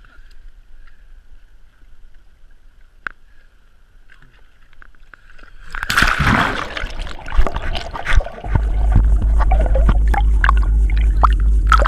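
Water sloshing and splashing close to the microphone, with a steady low rumble: faint for the first half, then loud from about halfway through.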